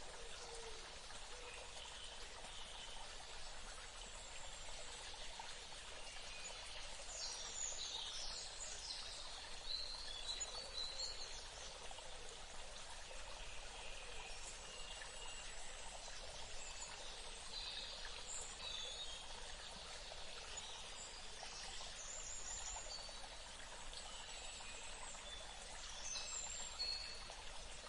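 Steady running water, like a stream, with birds chirping on and off over it in short calls.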